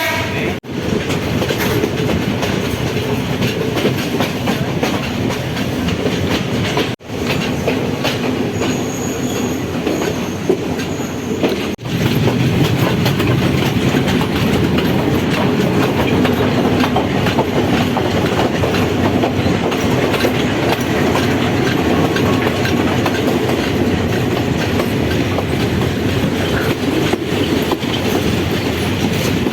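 Train running along the track, heard from aboard: a steady rumble with the clickety-clack of wheels over rail joints. The sound drops out briefly about 7 and 12 seconds in, and is louder after the second break.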